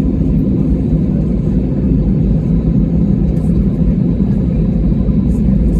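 Steady low rumble of an airliner's cabin noise from the aircraft's engines, even and unbroken.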